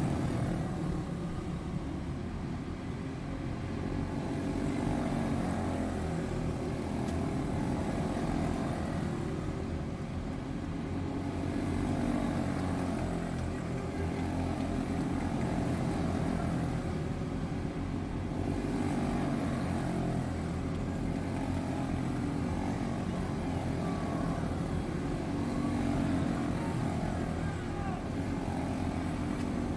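A pack of quarter midget race cars running on the track, their single-cylinder Briggs & Stratton Animal engines buzzing steadily. The sound swells and fades every several seconds as the cars come round.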